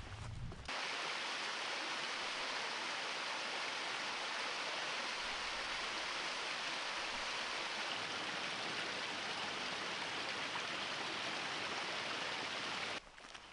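Steady rush of a mountain stream's waterfall, an even roar of falling water that starts abruptly about a second in and cuts off just as suddenly near the end.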